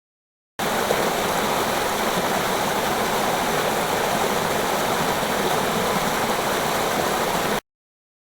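Steady rush of running water, like a stream, that starts abruptly under a second in and cuts off suddenly near the end.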